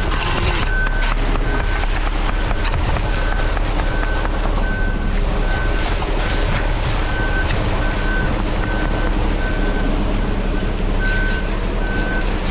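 Concrete mixer truck reversing: its backup alarm beeps about twice a second over the steady low rumble of the diesel engine.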